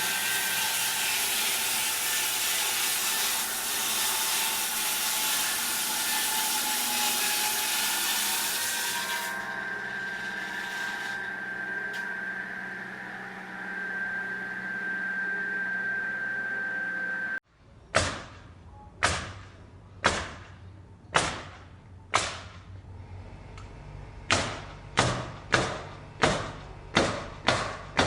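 A steady machine drone with a high whine, cutting off suddenly about two-thirds of the way through; then about a dozen sharp knocks at uneven spacing, each ringing out briefly.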